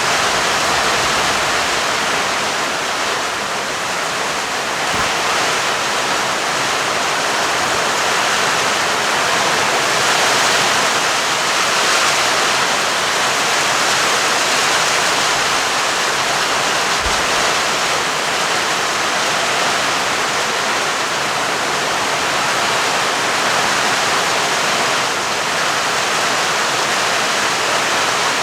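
Steady heavy rain, a dense even hiss that keeps at the same level throughout.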